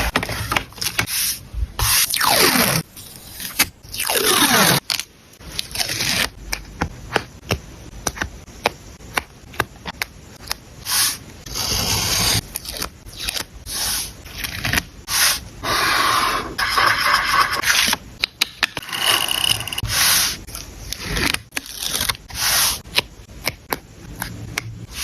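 Paper and stationery being handled for a journal layout: scraping and rustling of paper, with many sharp clicks and taps and a couple of falling swishes in the first five seconds.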